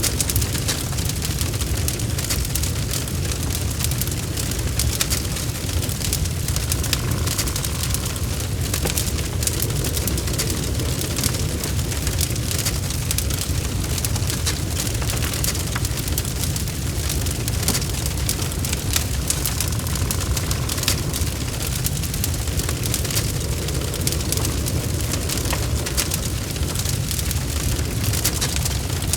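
Log fire burning steadily, a constant low rumble with frequent sharp crackles and pops from the burning wood.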